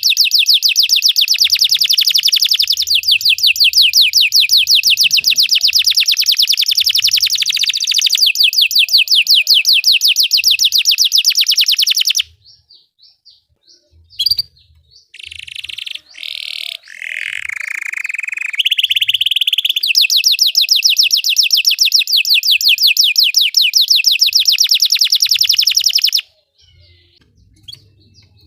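Belgian canary singing: a long, rapid rolling trill of evenly repeated high notes lasting about twelve seconds, a few seconds of short separate notes, then another long rapid trill lasting about eight seconds that stops shortly before the end.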